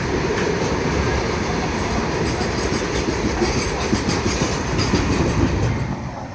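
Goods train rolling past, its wagons rattling and clicking over the rail joints. The sound falls off sharply near the end.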